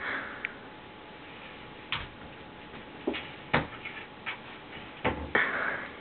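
Cupboard door knocking and bumping in its frame as a cat paws and pulls at it to get it open: half a dozen irregular knocks, with short scratchy noises at the start and near the end.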